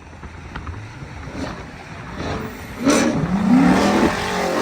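V8 muscle car engine revving, building in loudness and then a hard rev about three seconds in, its pitch sweeping up and back down.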